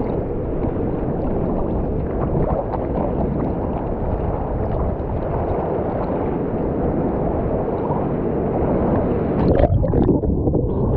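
Churning surf water rushing and gurgling around a point-of-view camera in the waves, a dense muffled wash with no letup. It turns choppy and uneven near the end.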